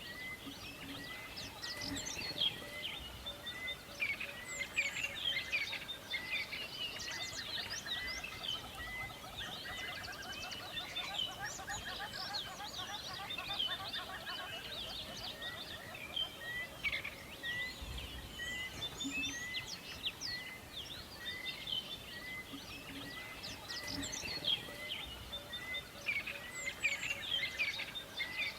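Forest birdsong: many birds chirping and calling at once, with one bird repeating a short note at an even pace and a lower pulsing trill in the first half.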